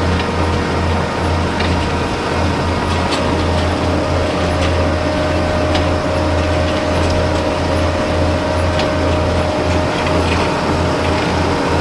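Dewulf R3000S self-propelled potato harvester running steadily under load: a constant low engine drone with a steady mechanical whine and occasional light clicks and rattles from the machinery.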